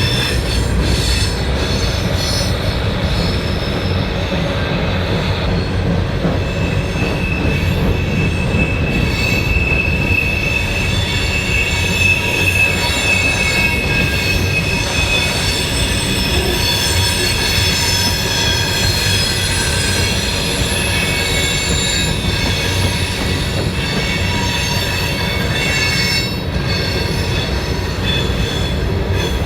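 A train rolling past on steel rails with a continuous low rumble, its wheels squealing in several high, steady tones that grow loudest midway through.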